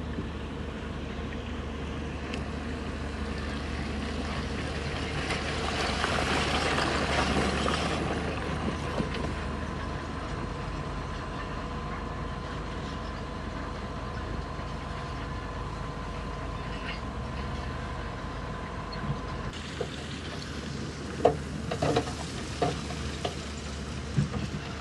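Bulldozer's diesel engine running under load with a steady drone and faint whine, swelling louder for a few seconds a quarter of the way in. Near the end come several sharp metallic clanks.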